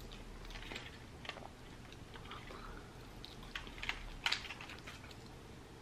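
Faint close-up chewing of a mouthful of lamb gyro, with scattered small clicks and one sharper click about four seconds in.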